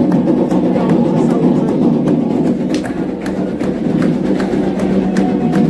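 Candomblé ritual music: a dense, steady mass of voices and drumming, cut through by sharp struck clicks.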